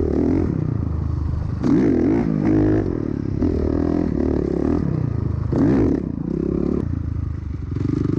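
A vehicle engine running, swelling and wavering in pitch about once a second, as if repeatedly blipped or bouncing over terrain.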